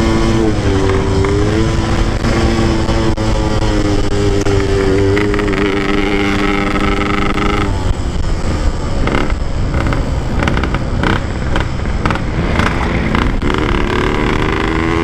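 Motorcycle engine running as it is ridden, held at fairly steady revs at first. About eight seconds in it turns choppy, with short sharp knocks and on-off throttle, then revs rise again near the end.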